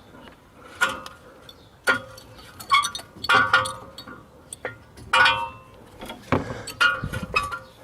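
Metal brake parts and hand tools clinking and knocking against each other: about eight irregular sharp clinks, each with a short metallic ring.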